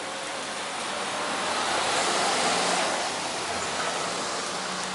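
Heavy rain pouring down steadily, swelling a little louder about two seconds in.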